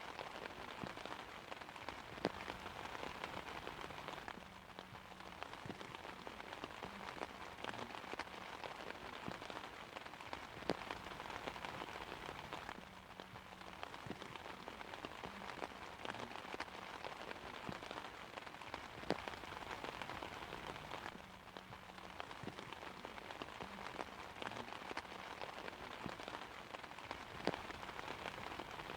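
Steady rain falling on an umbrella, with single drops striking sharply here and there. It eases slightly and swells again about every eight seconds.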